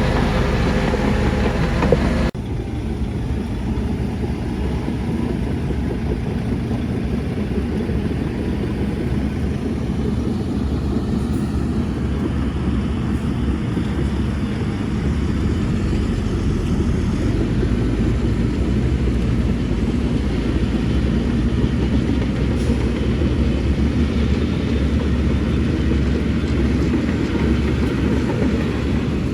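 Heavy diesel earthmoving machinery running with a steady low rumble. About two seconds in, the sound cuts abruptly from a louder engine note with a clear pitch to a duller, deeper rumble.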